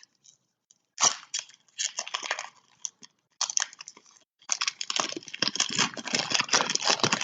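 Trading card pack wrapper being torn open and crinkled by hand: a sudden loud crackle about a second in, scattered crinkles after it, then continuous crinkling from about halfway through.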